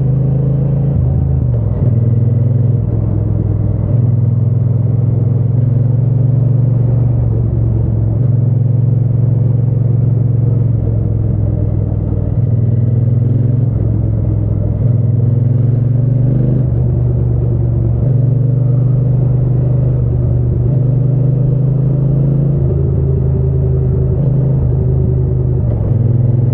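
Triumph Bonneville T120's parallel-twin engine and exhaust running under way, a deep steady note that holds a speed for a few seconds, then steps up or down as the throttle and gears change.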